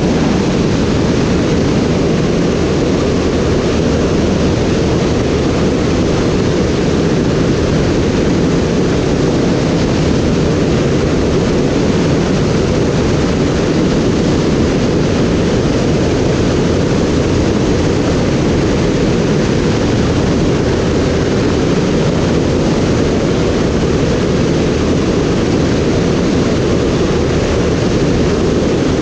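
Steady drone of an aircraft's engine mixed with rushing air in flight, loud and unchanging.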